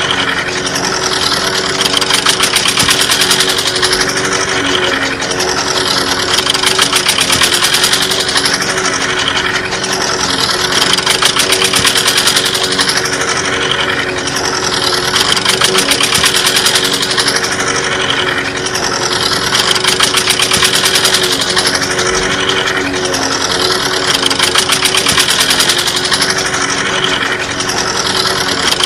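Small single-cylinder diesel-type stationary engine running steadily with a rapid knocking chug, driving a miniature chaff cutter. A higher-pitched pattern comes back about every four seconds.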